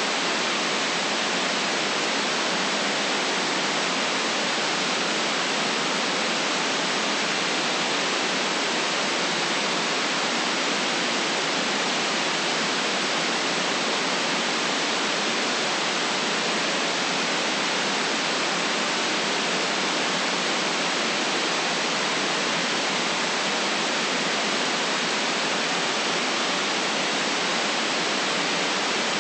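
Steady, unchanging white-noise hiss, with no deep rumble and no highest treble.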